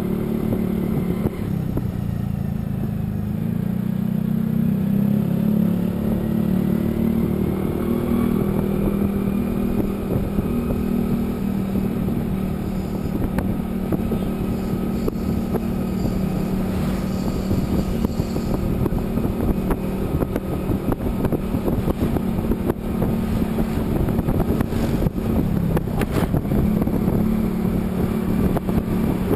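A motor vehicle's engine running steadily on the move, with continuous road and wind noise; its pitch drifts slowly up and down.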